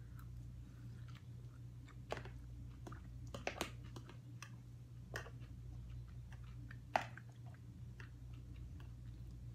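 Chewing a mouthful of hummus pasta close to the microphone, with scattered short clicks and scrapes of a metal fork in a plastic food container; the sharpest click comes about seven seconds in.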